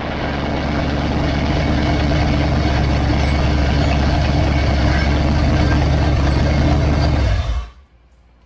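Fuel-injected 395-cubic-inch, low-compression V8 on an engine dyno, running steadily and loud, then stopping suddenly near the end.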